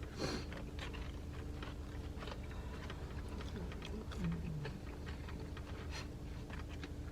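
People eating fried chicken: soft chewing and small scattered clicks, over a steady low hum inside a car's cabin. A short low 'mm' from one of the eaters comes about four seconds in.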